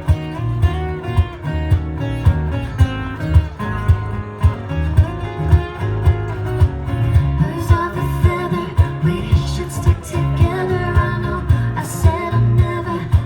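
Live band playing a pop song: acoustic guitar strumming over bass and a steady drum beat, with a voice singing over the second half.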